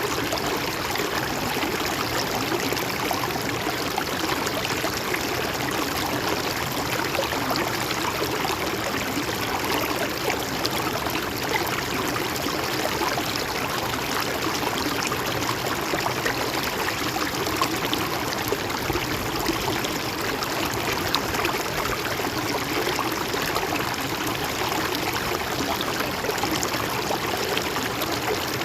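Stream or river water flowing steadily over rocks, a continuous rushing with a fine gurgling, trickling texture.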